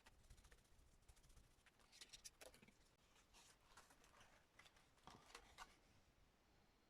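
Near silence with a few faint taps and rustles of paper handling, in two short clusters about two and five seconds in.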